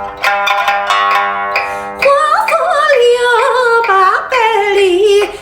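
Pipa playing, rapidly repeated plucked notes ringing, with a voice singing a melody with vibrato over it from about two seconds in.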